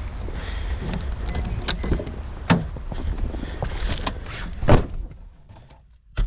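Car's low rumble with a few knocks and a jingle of keys, the loudest knock about five seconds in. The rumble then drops away, and a sharp click comes at the end.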